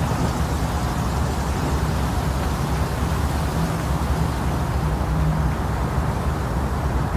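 Steady, even noise with most of its energy deep in the bass, played as a womb-sound simulation to lull a baby to sleep.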